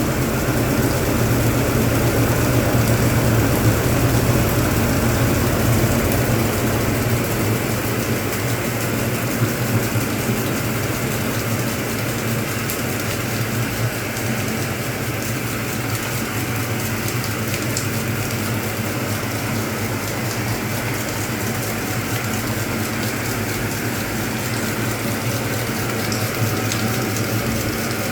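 Hoover Automatic 820 washing machine spinning while it sprays water over the load: a steady motor hum under a hiss of spraying water. The lowest part of the hum drops away about six seconds in.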